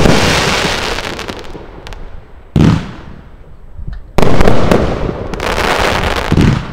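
Consumer firework battery (a Gao cake) firing: sharp bangs, a small one about two and a half seconds in and loud ones about four and six seconds in, each followed by a long fading crackle.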